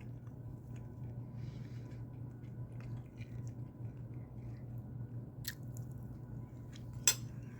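Person chewing a mouthful of flatbread and bacon, with soft, small mouth sounds and two sharp clicks about five and a half and seven seconds in, over a steady low hum.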